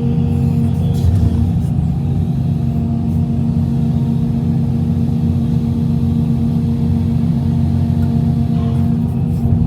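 Heavy diesel engine of a Hitachi EX350LC hydraulic excavator running steadily at a constant speed, with a deep, even hum.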